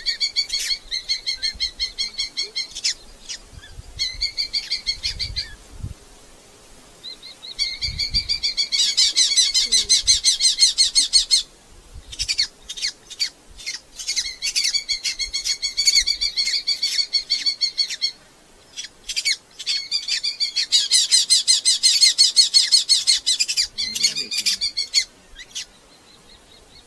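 Red-footed falcons calling: loud, high, rapidly repeated notes in long series of several seconds each, with short breaks between the bouts.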